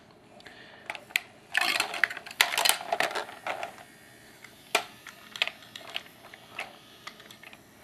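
Plastic clicks and rattles of a Hess toy truck being handled to get it going again after it stalled, with a busy run of clicking and rattling a couple of seconds in, then scattered single clicks.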